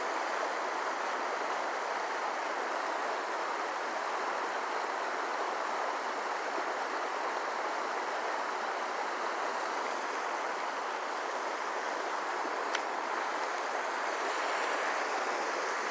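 Creek water flowing steadily, an even rushing hiss with no change in level, and a single small click about thirteen seconds in.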